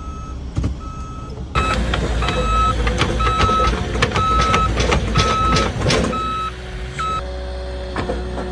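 Truck's reversing alarm beeping a single tone a little more than once a second over the running engine, which gets louder about a second and a half in as the truck backs up, with scattered sharp cracks and knocks. The beeping stops about a second before the end.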